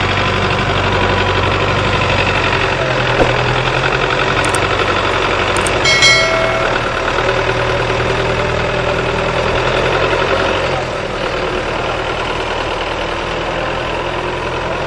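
Diesel tractor engines running steadily. A brief high-pitched tone sounds about six seconds in.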